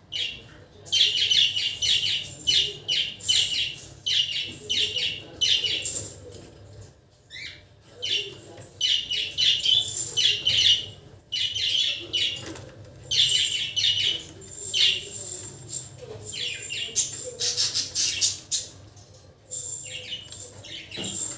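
Pet budgerigars chirping and chattering in rapid high chirps that come in repeated bursts with short pauses between.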